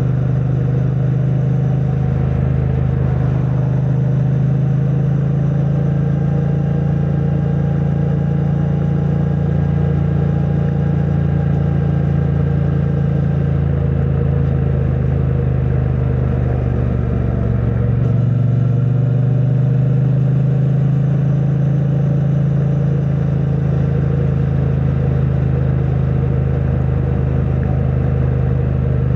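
2022 Triumph Bonneville T100's parallel-twin engine, on its stock exhaust, running at a steady cruise. The engine note wavers and shifts briefly about seventeen seconds in, then holds steady again.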